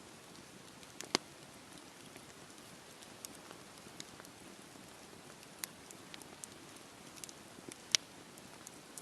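Campfire burning: a faint, steady hiss of flames with scattered sharp crackles and pops, the loudest about a second in and another near the end.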